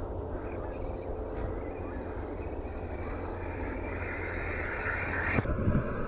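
Arrma Mojave 6S RC truck's electric drivetrain whirring, growing louder toward the end, with an abrupt change in the sound about five seconds in. The drivetrain sounds rough because of a poor-quality pinion gear, the owner says.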